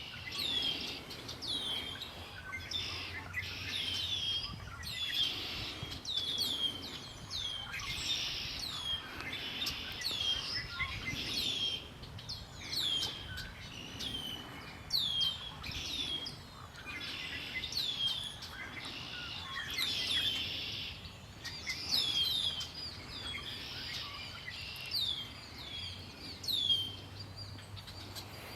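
A chorus of many small songbirds chirping and singing at once, with short notes that fall sharply in pitch repeated over and over, overlapping throughout.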